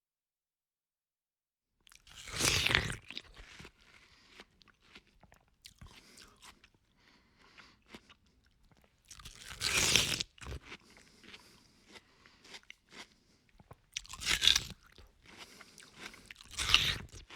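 A person biting into something crunchy and chewing it. There are four loud crunching bites, the first about two and a half seconds in and the others near ten, fourteen and seventeen seconds, with quieter crackly chewing in between.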